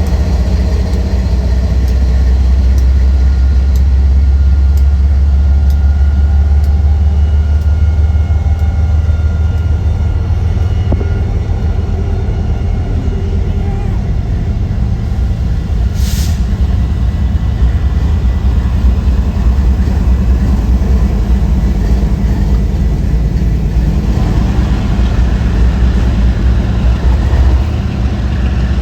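A train running past with a steady, deep rumble and faint thin whines in the first half. About 16 seconds in there is one short, sharp hiss.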